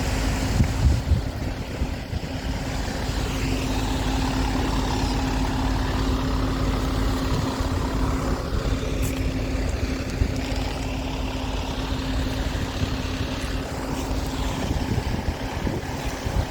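An engine running at a steady speed, one constant hum, with wind buffeting the microphone.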